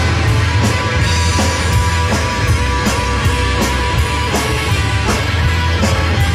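Live rock band playing: guitar over bass guitar and drums, with cymbal hits keeping a steady beat.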